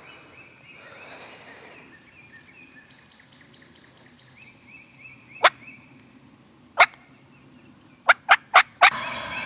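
Wild turkey gobbling loud and close near the end, after a few loud, sharp clicks, the last four in quick succession.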